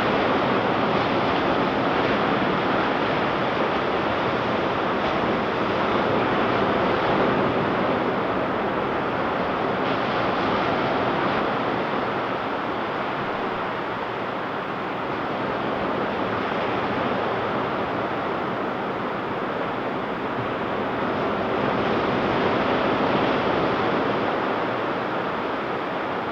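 Ocean surf breaking on a beach, a continuous wash of waves that swells and eases slowly, with some wind on the microphone.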